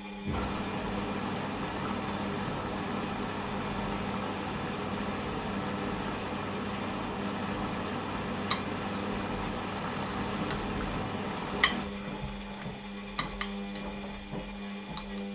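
Washing machine early in its wash programme: a steady hum with water rushing in, the fill starting suddenly and cutting off about twelve seconds in. A few sharp clicks follow near the end.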